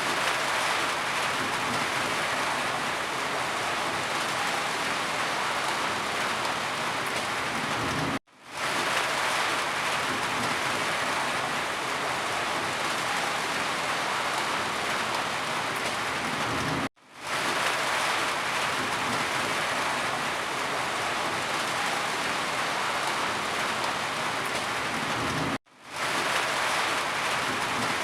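Steady heavy rain falling on surfaces. Three times, about every eight and a half seconds, it cuts out for a moment and fades back in.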